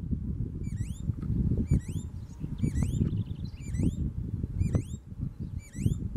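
Green-backed becard singing: short rising notes repeated about once a second, some in quick pairs or threes. A low rumble runs underneath throughout.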